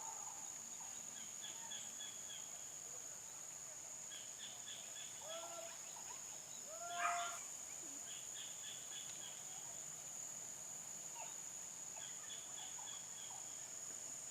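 Faint outdoor ambience: a steady high insect drone with scattered bursts of short high chirps. About five seconds in comes a short pitched call, and a louder one about seven seconds in.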